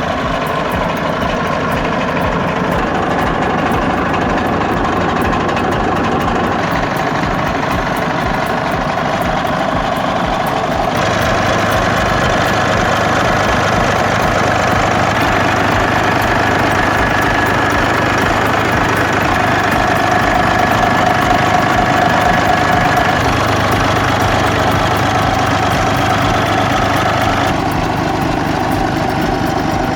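Large Rolls-Royce marine and industrial diesel engine running steadily at constant speed, a smooth, even engine sound. Its tone shifts abruptly a few times without the engine changing speed.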